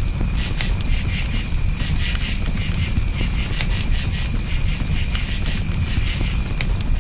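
Crickets chirping in steady, fast-pulsing trills over a crackling campfire, with sharp pops from the burning wood and a low rumble from the flames underneath.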